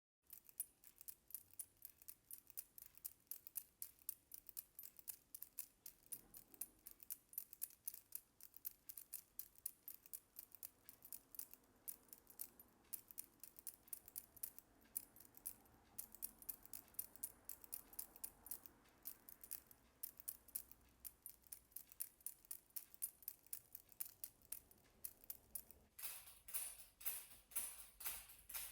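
Quiet, rapid ticking and jingling of small fittings on a jacket, about four or five light strokes a second, played rhythmically like a rattle or tambourine. Near the end the strokes turn louder and fuller.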